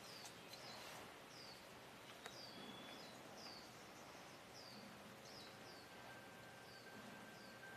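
Faint outdoor ambience with a bird calling over and over: short, high chirps falling in pitch, about one a second, over a low hiss.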